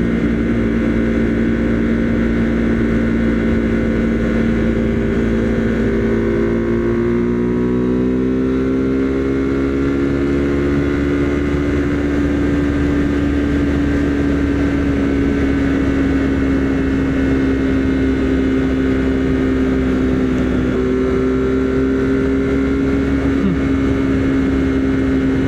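Husqvarna Svartpilen 401's single-cylinder engine running while riding at a steady pace. Its note rises gently about seven seconds in and steps up slightly again near twenty seconds.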